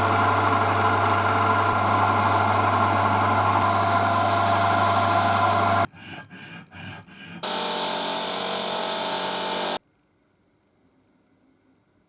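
An electric power tool working on metal, a steady hiss over a constant motor hum. It runs for about six seconds, drops to a quieter fluttering for a second and a half, starts again, then cuts off abruptly a couple of seconds before the end.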